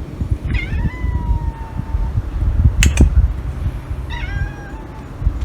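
A cat meowing twice: one long, slightly falling meow about half a second in and a shorter meow about four seconds in. Two sharp clicks come between them, over a steady low rumble.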